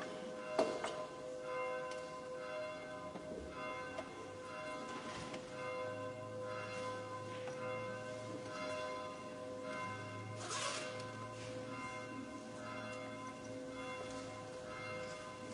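Church bells ringing, struck again and again, each tone ringing on and overlapping the next.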